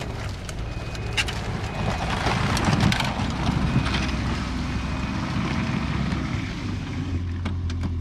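Snowmobile engine running as the Ski-Doo is backed down the truck's ramps, with its reverse warning beeper giving a short faint high beep about once a second.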